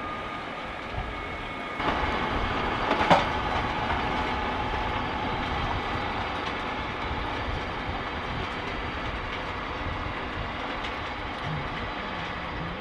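Tracked farm tractor working, its engine and running gear giving a steady rumbling clatter that grows louder about two seconds in, with one sharp knock about a second later.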